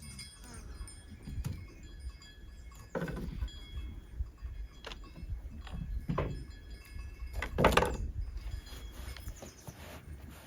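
Irregular knocks and clanks, several seconds apart and loudest about three-quarters of the way through, with a faint metallic ringing.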